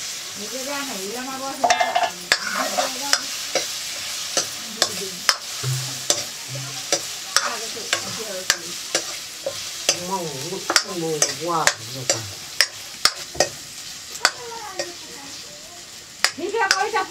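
Potatoes frying in hot oil in a wok, sizzling steadily, while a metal ladle stirs them and clinks and scrapes against the wok many times at an irregular pace.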